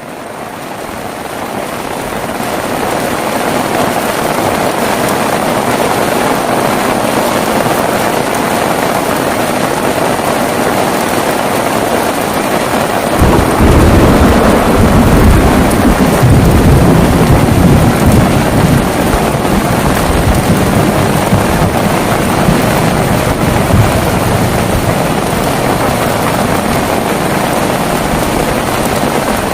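Heavy rain falling steadily, swelling up over the first few seconds. About 13 seconds in, a loud roll of thunder breaks in and rumbles on for several seconds.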